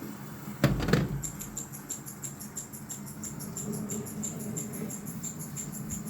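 A single knock about a second in, then a telegraph sounder clicking out Morse code in a fast, even run of sharp clicks, about five a second.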